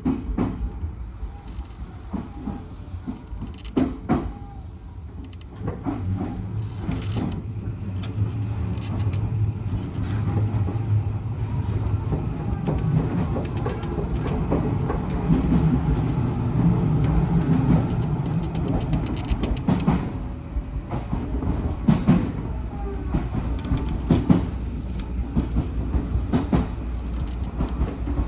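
Odakyu 1000-series electric train running along the line: a steady rumble with repeated sharp clacks of the wheels over the rails. The low running noise grows louder from about six seconds in.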